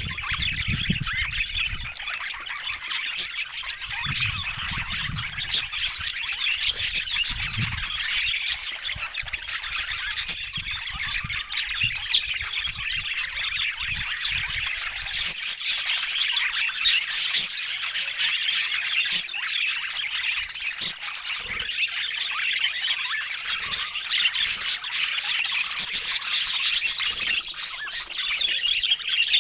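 Budgerigars chattering continuously, a dense stream of rapid chirps and squawks. There is some low rumbling in the first several seconds.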